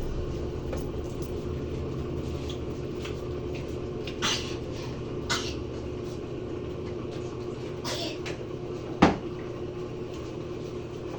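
Mabe top-load washing machine winding down at the end of its spin cycle: a steady motor hum that slowly fades, with a few light clicks and one sharp knock about nine seconds in.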